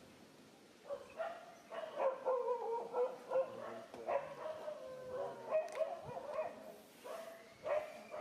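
Baby monkey crying, a quick run of short high-pitched cries that starts about a second in, keeps up for several seconds, pauses briefly and comes back near the end.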